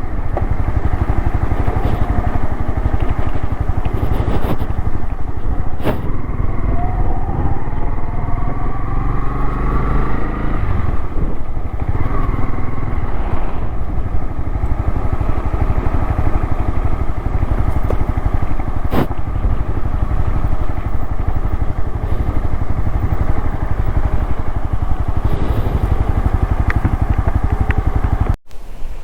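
Honda motorcycle engine running steadily while riding, its pitch rising and falling a few times about a third of the way through, with a few short knocks and a brief dropout near the end.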